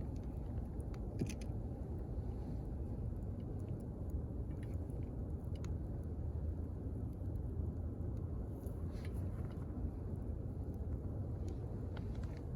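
Wood campfire burning with a steady low rumble of flame, and a few sharp pops and crackles from the burning wood scattered through it.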